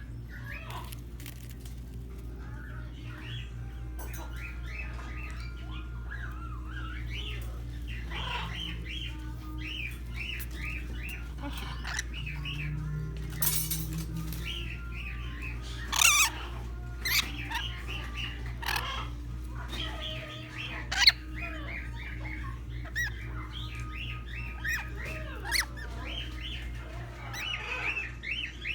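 A roomful of parrots chirping constantly, with several loud, harsh squawks in the second half. Soft background music with held notes plays under the birds.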